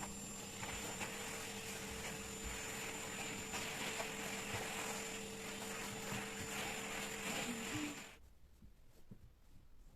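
A household appliance's motor running steadily with a low hum and a thin high whine, cutting off suddenly about eight seconds in.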